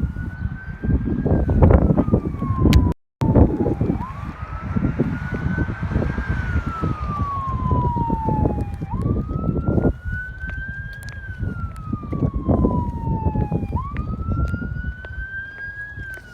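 Emergency vehicle siren on the wail setting: each cycle rises over about a second, then falls slowly over two to three seconds, repeating about every five seconds over a heavy low rumble. The sound cuts out for a moment about three seconds in.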